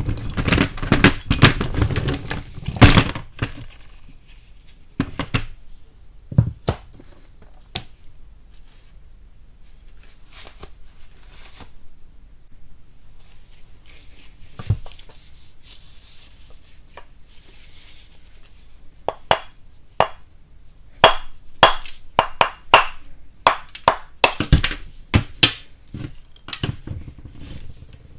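Lumps of chalk being snapped and tapped: a dense run of crunching cracks at the start, scattered single taps and small snaps through the middle, then a quick series of sharp cracking clicks in the last third.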